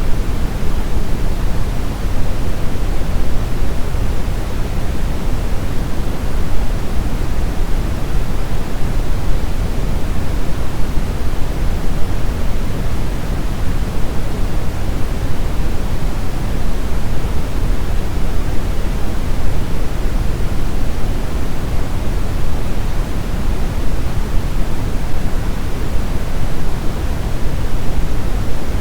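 Steady synthetic brown noise: an even, unchanging rumbling hiss, heaviest in the deep bass and fading toward the highs.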